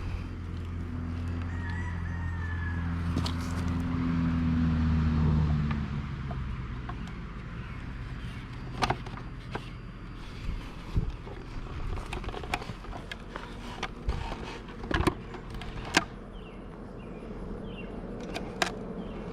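Buzzing of honeybees around a crowded, open hive: a low hum, loudest over the first six seconds and then fading. After that come scattered sharp knocks and clicks.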